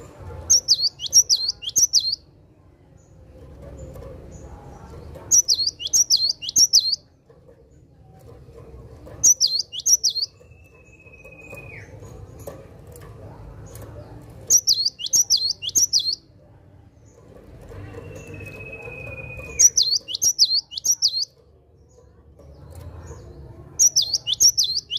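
Cinereous tit (gelatik batu) singing: six short bursts of rapid, sharp, high 'wucit wucit' notes, each about a second and a half long and coming every four to five seconds. Twice between phrases there is a long level whistle that drops away at its end.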